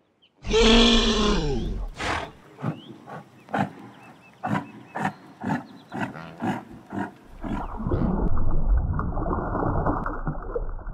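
A large animal's long, loud call, falling in pitch, followed by about ten short grunts at roughly two a second. About seven seconds in, a steady rush of aquarium water takes over.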